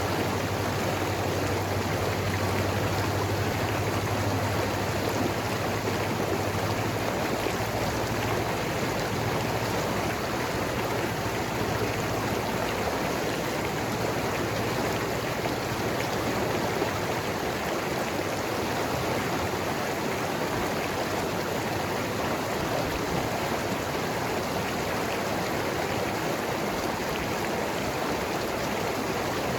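Mountain river flowing over rocks: a steady, even rush of water with gurgling.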